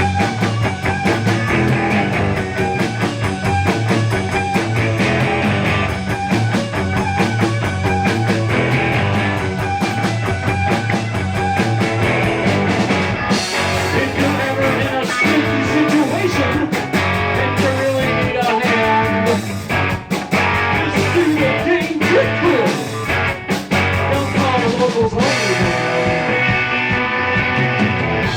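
A rock band playing live: guitar to the fore over a steady driving beat.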